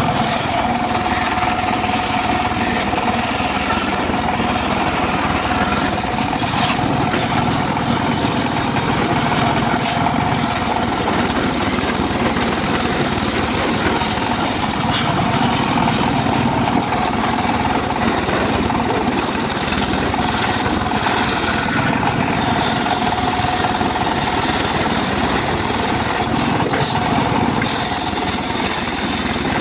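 Homemade circular saw running continuously while cutting mahogany, a steady drone with a rasping cutting noise that shifts every few seconds as the blade works through the wood.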